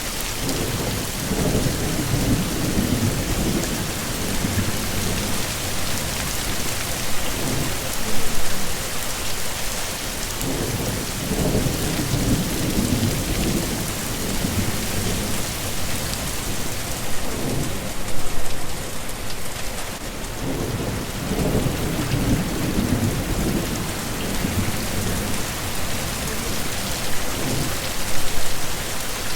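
Heavy rain falling steadily, with several low rolls of thunder rumbling under it.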